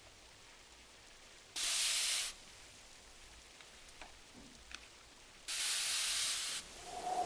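Two paper page turns, each a short papery swish, the second one longer, over a faint steady bed of rain on glass with a few tiny fire crackles. A soft knock with a brief ringing tone comes at the very end.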